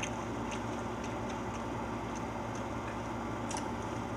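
Faint, irregular light clicks from children eating a meal, about two a second, over a steady low hum.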